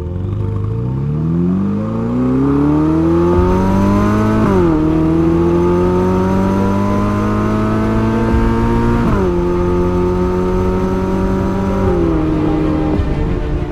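Ferrari SF90 Stradale's twin-turbo V8 accelerating, its pitch climbing and then dropping sharply at each of three gear changes.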